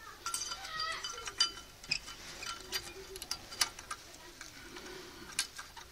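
Light metallic clicks and clinks of a steel brake-pad spring being fitted into a disc brake caliper, some with a short ringing after them; the sharpest click comes a little past halfway.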